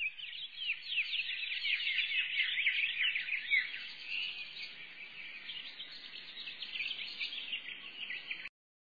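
A dense chorus of small birds chirping, many quick downward-sliding chirps overlapping one another, cutting off abruptly near the end.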